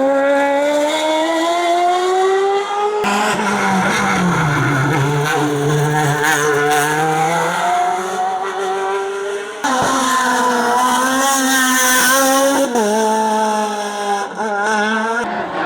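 Race car engines run hard uphill, their pitch climbing under acceleration and dropping at gear changes. The sound is several short clips of different passes, joined by abrupt cuts.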